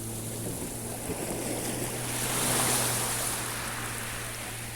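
Sea waves washing on the shore, one wave swelling and breaking about two to three seconds in and then receding, over a steady low hum.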